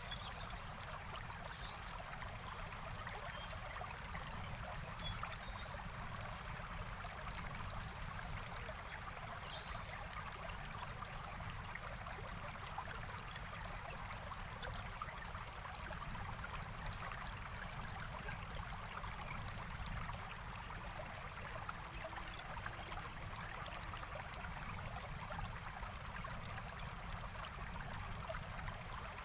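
Forest stream flowing steadily, an even rushing and trickling of water. A few faint, brief bird chirps sound over it in the first third.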